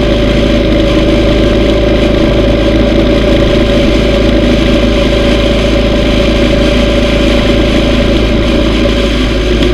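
Yamaha V Star 950's air-cooled V-twin engine running with a steady, unchanging note, together with a dense low rumble.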